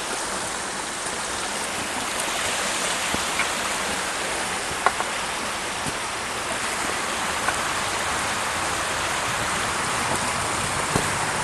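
Creek water flowing steadily over rocks, a continuous rushing babble, with a few faint clicks.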